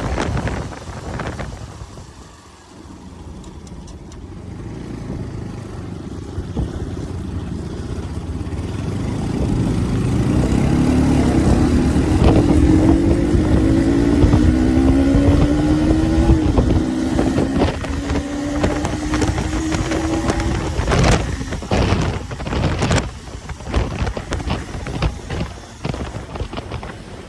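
Motorcycle engine pulling while the bike is ridden, its pitch rising with speed and dropping once at a gear change about halfway through. It is followed by rough noise and a few knocks near the end.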